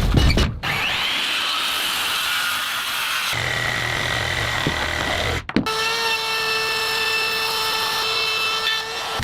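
Power drill driving structural screws into log timbers: a steady motor whine in a few short spliced takes, holding an even pitch through each, with a brief break about five and a half seconds in.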